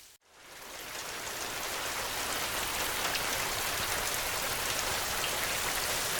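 Heavy rain falling steadily. The sound drops out to silence for a moment just after the start, then fades back in over about a second.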